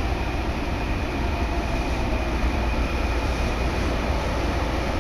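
Keikyu Main Line electric train running, heard from inside the passenger car: a steady rumble of wheels on track with a faint, steady high whine above it.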